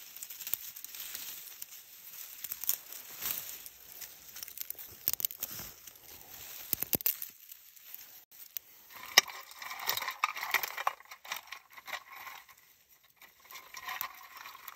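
Small sticks of kindling being put into a tin-can hobo stove, clicking and clattering against the metal, with rustling handling throughout and a busier run of clatter about nine seconds in.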